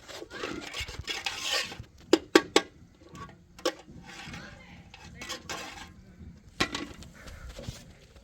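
Scraping and stirring against a metal pan, then sharp metal clinks: three in quick succession about two seconds in, and single ones near four and seven seconds.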